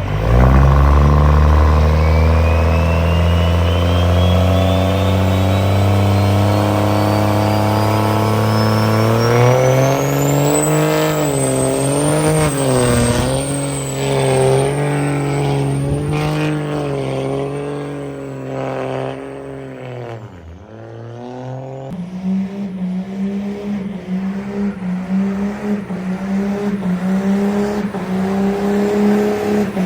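Truck engine revved hard and held high, its pitch climbing for about ten seconds with a thin whistle rising alongside it. It wavers up and down at high revs, drops off sharply about twenty seconds in, then runs on at a lower, rougher steady note.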